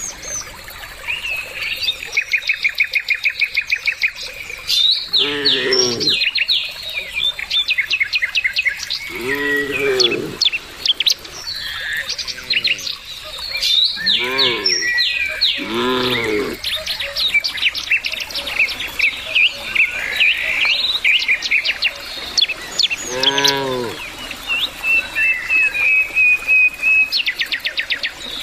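Birds chirping and trilling without pause, with rapid runs of repeated notes. Cattle moo about six times through it, each a short call of about a second that rises and falls in pitch.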